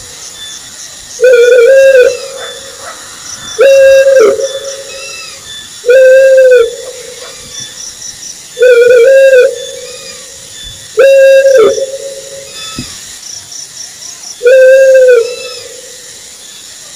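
Owl hooting: six single hoots, each under a second with a slight rise and fall in pitch, spaced about two to three seconds apart. Faint high chirps sound between them.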